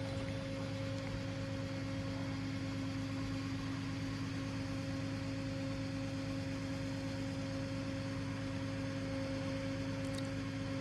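Scania crane truck's engine running at a steady speed, an even low hum with a few constant tones and no change in pitch.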